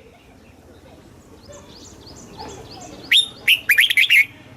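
Red-whiskered bulbul singing one loud, quick phrase of sharp warbled notes about three seconds in, after a run of faint high chirps.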